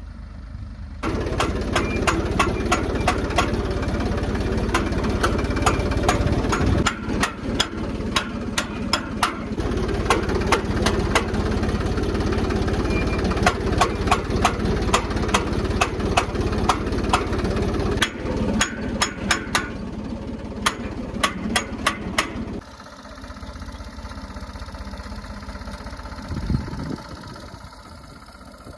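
Ford 3600 tractor engine running under load, with many sharp clicks and clatters over it. About 22 seconds in the engine sound drops and it runs on more quietly.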